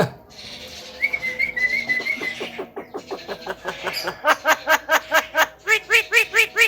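Javan myna calling: a brief wavering whistle, then a long run of quick repeated notes that grow louder and settle into an even series of arched whistled notes, about five a second.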